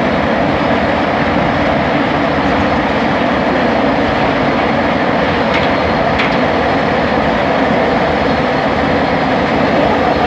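Bombardier Innovia ART 200 linear-induction-motor train running at speed, heard from on board as a loud, steady rumble and running noise, with two faint clicks about halfway through.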